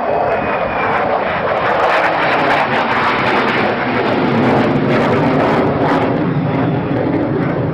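Fixed-wing aircraft flying by, its engine noise a loud steady rush, with a deeper drone building about halfway through.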